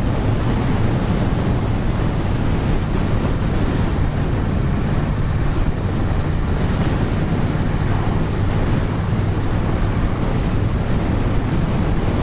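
Motorcycle engine running steadily at cruising speed, with heavy wind noise on the camera's microphone.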